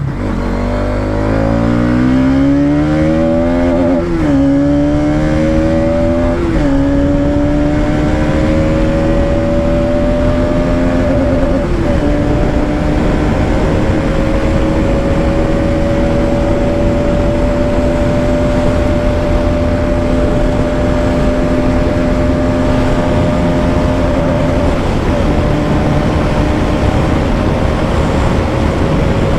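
Bajaj Pulsar NS200's single-cylinder engine accelerating hard through the gears in a flat-out top-speed run, its pitch climbing with brief dips at upshifts about 4, 6.5 and 12 seconds in. After the last shift it holds high revs near top speed, the pitch creeping slowly up, over a steady rushing noise.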